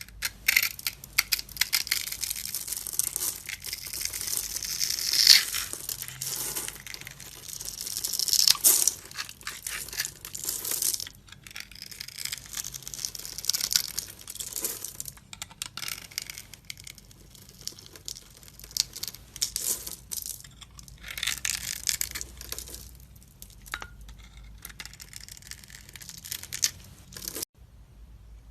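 Knife blade scraping and cutting into a bar of soap in quick, irregular crisp strokes, with short pauses between runs of cuts.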